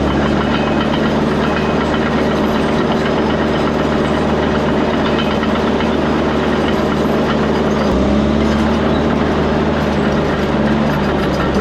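Diesel engine of a piece of heavy earthmoving equipment running steadily. Its note changes slightly about eight seconds in.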